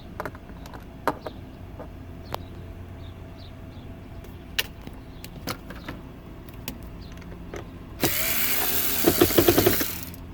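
Scattered light clicks and taps, then about eight seconds in a two-second whir of a power screwdriver, with a fast stutter near its end, as it backs out a speedometer cluster mounting screw.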